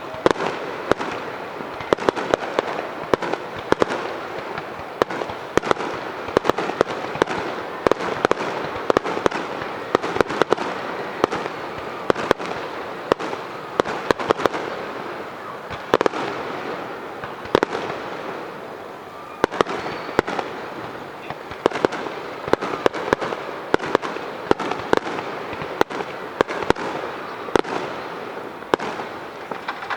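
Aerial fireworks bursting in rapid succession: many sharp bangs over a continuous crackling din, easing briefly a little past the middle.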